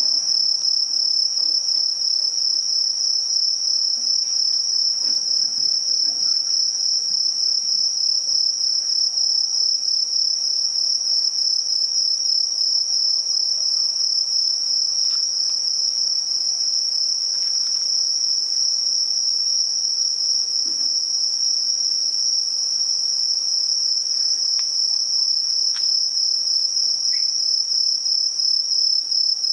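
Insects singing: a continuous high-pitched trill, rapidly pulsing at one steady pitch without a break.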